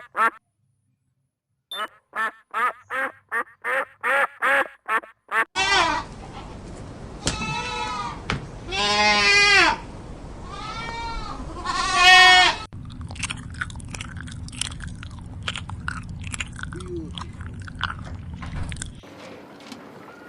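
A duck quacking in a quick run of short calls, about two or three a second. Then goats bleat four times in wavering, quavering calls over a steady background hiss, followed by soft clicking and rustling.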